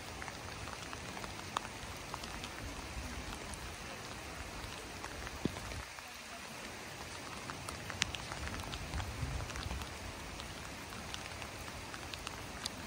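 Steady rain falling on wet pavement, an even hiss with scattered individual drops ticking close by.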